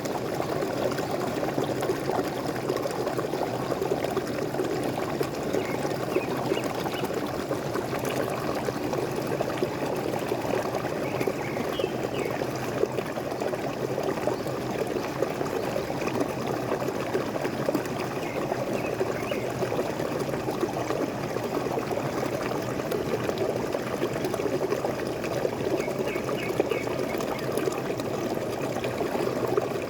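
Small waterfall splashing and pouring steadily, with a few faint high bird chirps over it now and then.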